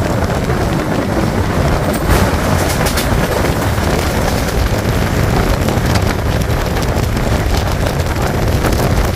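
Local passenger train running at speed, heard from its open doorway: a steady rumble of wheels on rail with wind buffeting the microphone. A few sharp clicks come about two and three seconds in.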